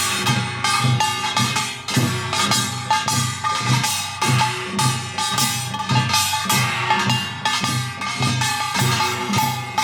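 Percussion-led music with drums beating a quick, steady rhythm.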